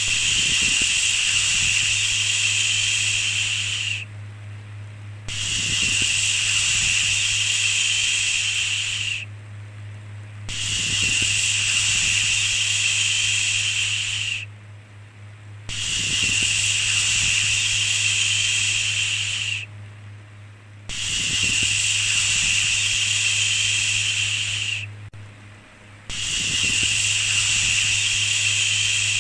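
A rhythmic 'shhh' shushing sound, repeated about six times: each shush lasts about four seconds and is followed by a pause of about a second. A steady low hum runs underneath.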